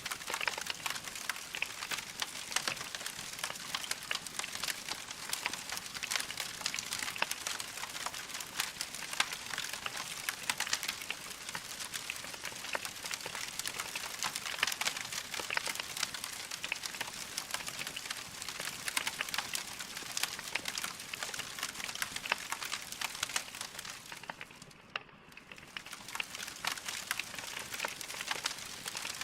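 Wood fire crackling steadily, with dense small snaps and pops from the burning logs over a soft hiss, easing briefly near the end before picking up again.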